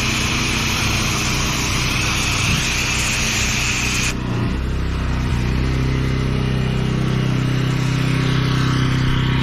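Pressure washer running with its water jet hissing, until the spray cuts off sharply about four seconds in. The machine keeps running, its note rising slightly as the load comes off. It has lost pressure, which the operator puts down to a blocked filter.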